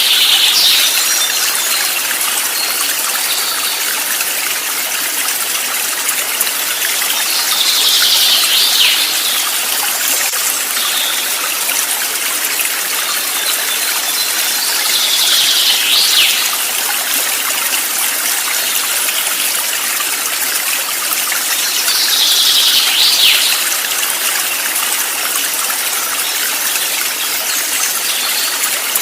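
Steady rush of flowing stream water. A short, high, falling sound comes four times, about every seven to eight seconds, as if the recording loops.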